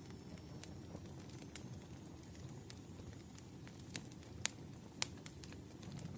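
Wood fire crackling: a low, steady rumble of burning logs with scattered sharp pops, the loudest two about four and a half and five seconds in.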